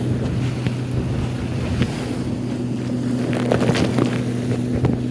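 Motorboat engine running at a steady pitch, with wind buffeting the microphone and water splashing against the hull.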